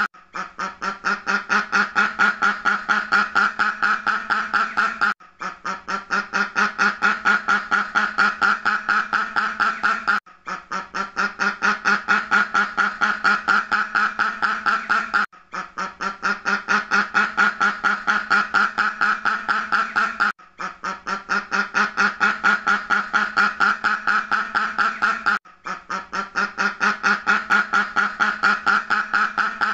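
A duck quacking in fast runs of short quacks, several a second. The same stretch of about five seconds repeats, with a brief gap before each repeat.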